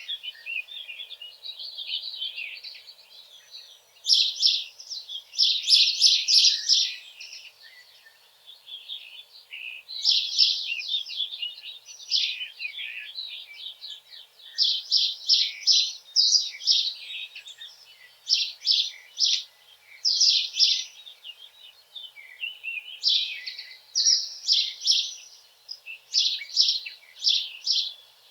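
Songbirds singing, phrase after phrase of quick high notes, with short gaps between phrases and some phrases overlapping.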